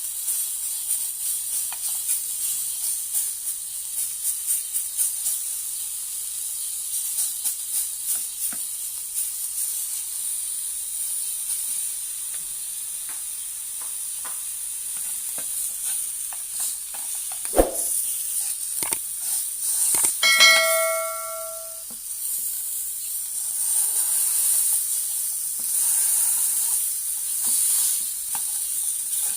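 Ribs sizzling and crackling over high heat, with a steady hiss. About two-thirds of the way through, a short pitched ringing tone sounds for about a second and a half, just after a sharp click.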